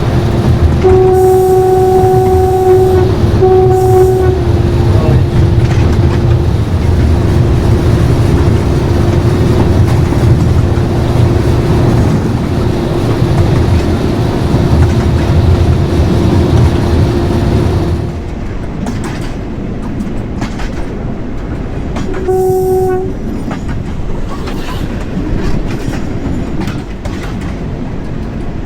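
Class 37 locomotive's English Electric V12 diesel engine running hard with a steady whine, its horn sounded twice in short blasts early on. About two-thirds of the way through the engine sound drops away, leaving wheels clicking over the rail joints, and the horn sounds once more briefly.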